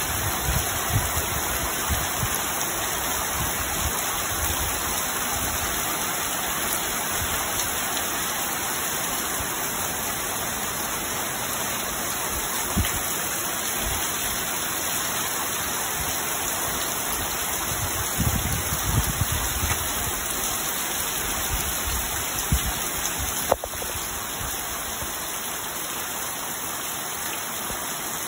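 Heavy rain falling steadily on a corrugated metal roof and pouring off its edge, a dense even hiss, with a few low rumbles and a single sharp click about 23 seconds in.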